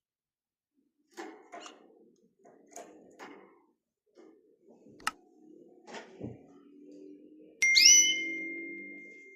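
Scattered clicks and soft knocks, then near the end a single bright chime strikes and rings on, fading slowly.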